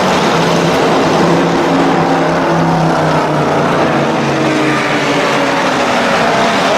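Supercars driving past with loud exhausts, several engine notes overlapping over a steady rush of noise, one note dipping slightly in pitch midway.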